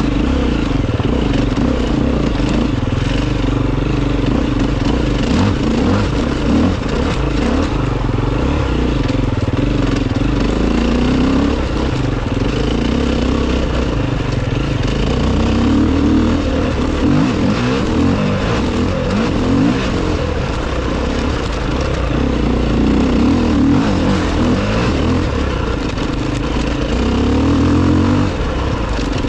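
Enduro motorcycle engine running continuously under load, its revs rising and falling over and over as it is ridden.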